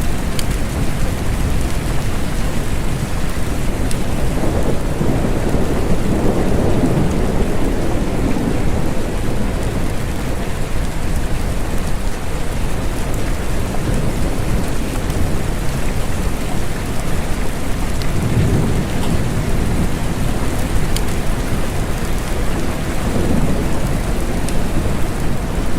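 Steady rain falling, a constant hiss with a few faint sharp drips, while low rolling thunder swells and fades several times.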